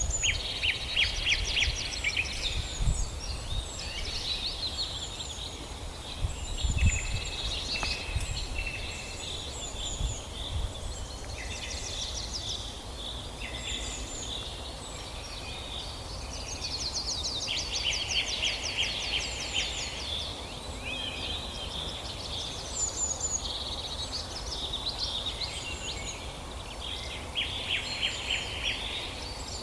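Several songbirds singing and chirping in a forest, in overlapping short phrases and rapid trills, over a low rumble.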